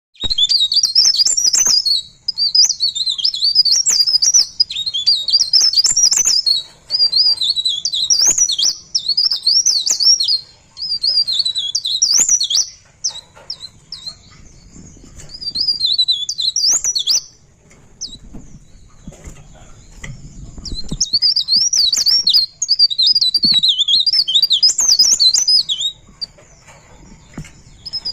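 A pare pare songbird singing a long, fast, high twittering warble in phrases of a few seconds each with short pauses. This is the bird in full rolling song. The song breaks off for a few seconds about two-thirds of the way through, then resumes.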